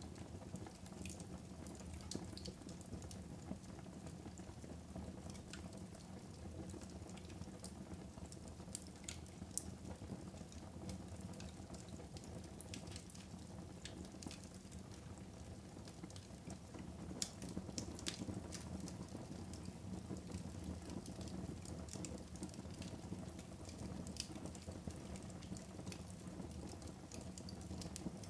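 Fire burning in a fireplace: a low, steady rush with scattered crackles and pops, and a few sharper snaps about a third of the way in and again past the middle.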